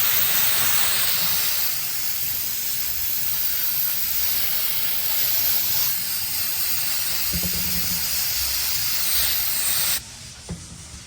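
Steady, loud hiss of a pressurised cleaning spray being sprayed onto a transmission oil pump cover to clean it, cutting off abruptly near the end.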